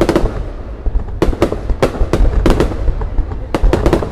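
Aerial fireworks going off: an uneven run of sharp bangs and crackles, several close together at times, over a steady low rumble.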